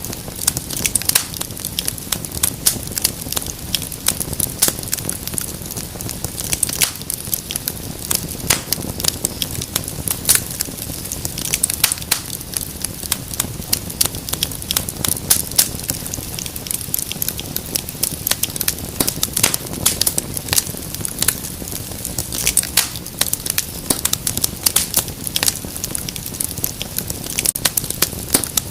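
Wood fire crackling steadily: many quick, irregular pops and snaps over a low, constant rush of flame.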